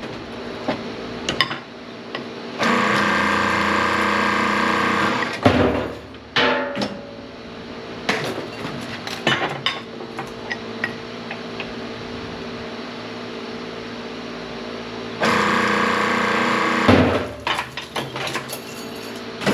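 Hydraulic press pump running steadily, rising twice to a louder, denser whine for about three and two seconds as the ram pushes under load, with scattered metal clanks and knocks of transformer scrap in between.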